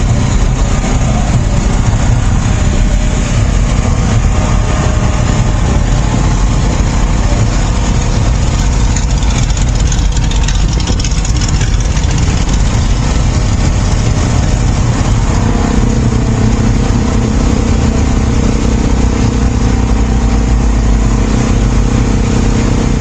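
Car engine running loud and steady, with the engine note settling into a steadier hum about two-thirds of the way in.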